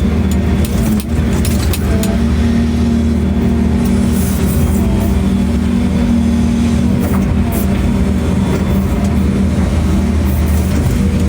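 Excavator's diesel engine running steadily under work, a constant low hum with a few light ticks over it.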